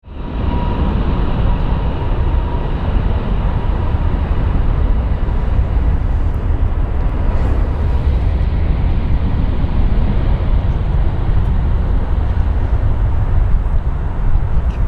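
Twin jet engines of an Airbus A321neo at takeoff thrust: a loud, steady rumble, with a faint whine in the first few seconds.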